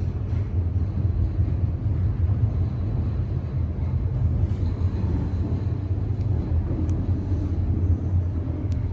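Passenger lift car travelling in its shaft: a steady low rumble from the running car.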